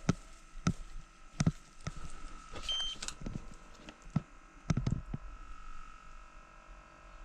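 A series of short, sharp knocks at irregular intervals, roughly one every half second to a second, thinning out after about five seconds.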